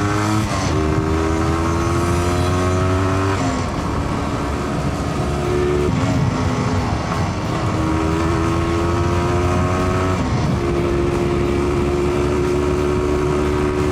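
1982 Cagiva SX 350's single-cylinder engine accelerating hard through the gears: its pitch climbs, drops at each upshift and climbs again, about four times over.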